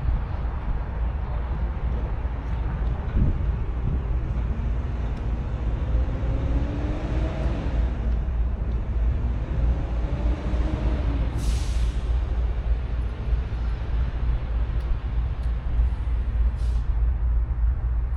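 Metra Electric commuter train running past the platform with a steady low rumble and pitched tones that slide up and down in the middle. A brief sharp hiss of air from the air brakes comes about eleven and a half seconds in.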